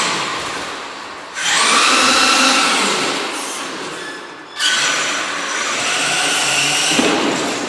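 RC truck's electric motor and drivetrain whining at full throttle in two runs, each starting suddenly (about a second and a half in, then again past the middle) and easing off gradually.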